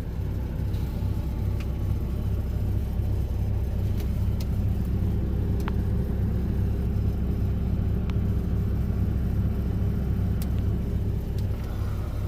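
Steady low rumble of a Mack Anthem semi truck's diesel engine and road noise heard inside the cab while driving, with a few faint ticks.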